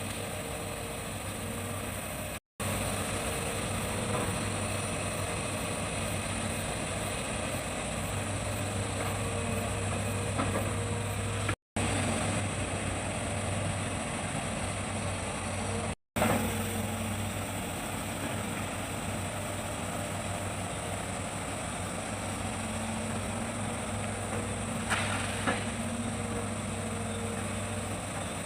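Hitachi excavator's diesel engine running steadily with a low hum, broken by three very brief gaps of silence, with a couple of light knocks near the end.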